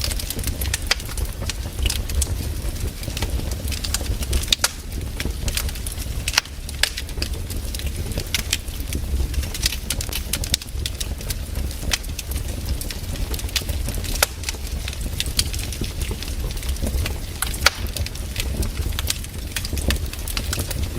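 Wood campfire burning, crackling with frequent sharp pops and snaps over a steady low rumble.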